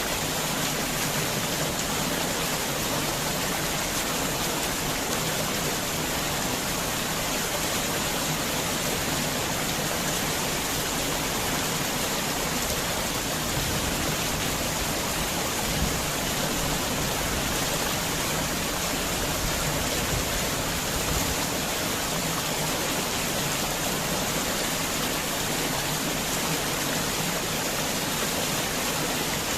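Heavy rain falling steadily, an even hiss without pauses.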